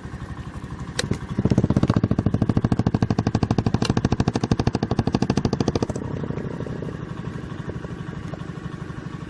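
Engine-driven hydraulic power unit of a rock splitter running with a rapid, even pulse. A click comes about a second in, then the engine runs louder for about four and a half seconds as the splitter is driven again, and drops back after that.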